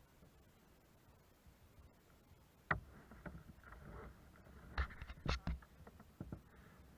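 A few sharp knocks and clatters on a kayak: one about three seconds in, then a quick cluster of three near five seconds, over a faint background.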